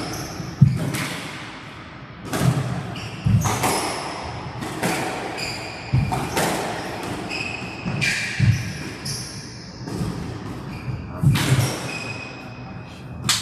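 A squash rally: the ball is struck by rackets and smacks off the court walls about once a second, with short squeaks in between from shoes on the court floor.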